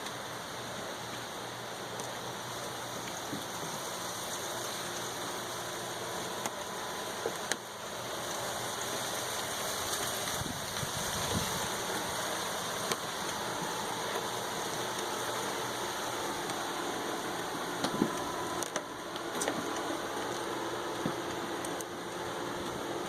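Steady wind noise with a few brief knocks, from hurricane outer-band winds.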